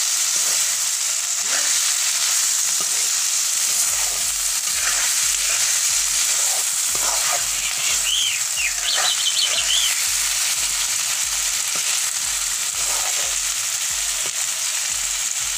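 Chopped banana flower and chicken sizzling in hot oil in a kadai, steadily stirred and turned with a metal spatula.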